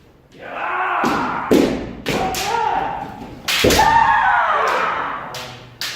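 Kendo sparring: several sharp bamboo shinai strikes and stamping thuds, with two long kiai shouts about two and a half and three and a half seconds in.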